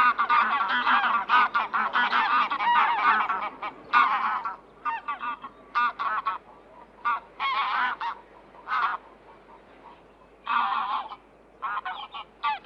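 Geese honking: many overlapping calls for the first four seconds or so, then shorter separate honks and short runs of calls with gaps between.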